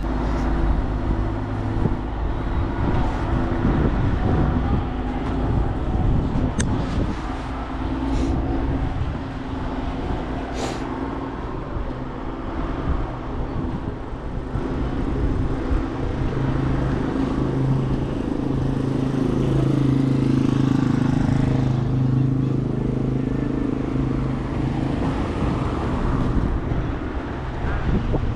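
A motor vehicle running, with a steady low engine hum that grows stronger and shifts in pitch from about the middle of the stretch onward.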